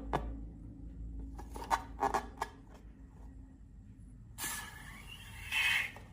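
A few sharp clicks and snips, then, from about two-thirds in, a rough rubbery scraping with a squeak in it, from balloons and slime being handled.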